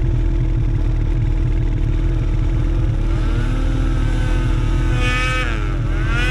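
Snowmobile engine running under throttle. From about three seconds in its pitch rises, then dips and climbs again near the end, as with revving.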